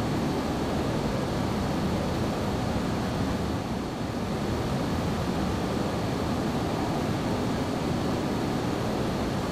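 Boeing 737-800 in flight: a steady rushing drone of its CFM56 turbofan engines and airflow, with a faint high whine running through it.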